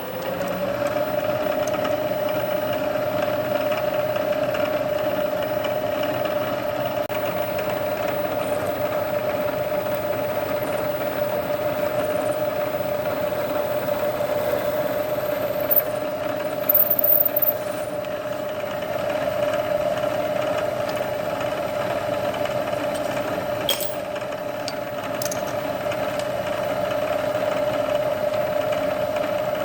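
Milling machine spindle winding up to speed and then running with a steady hum while a center drill is fed into the part. A few brief high squeaks and clicks come about halfway through.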